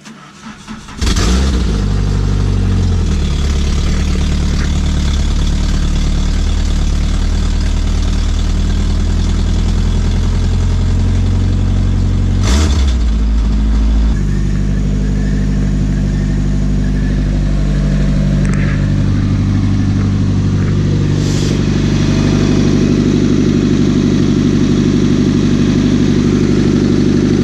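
Nissan KA24DE 2.4-litre inline-four starting up about a second in, then idling loud and steady through an exhaust that leaks at its offset flange.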